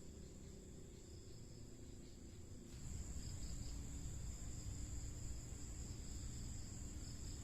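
Crickets chirring steadily as a high, even drone. A low rumble underneath grows louder about three seconds in.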